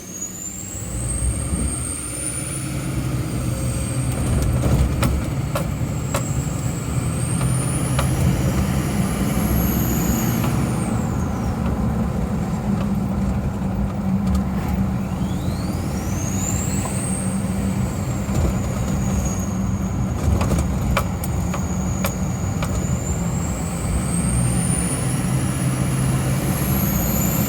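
LBZ Duramax 6.6 L V8 turbo-diesel with a Stainless Diesel 61/62 mm 9-blade turbocharger and stock exhaust: the turbo's high-pitched whistle rises as it spools up under throttle, holds, drops away about eleven seconds in, then spools up again from about fifteen seconds, over the engine's low drone. Heard from inside the cab with the windows down.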